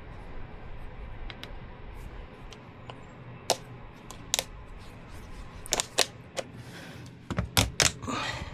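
Scattered sharp clicks and knocks, a few single ones and then a quick cluster near the end, over a low steady hum.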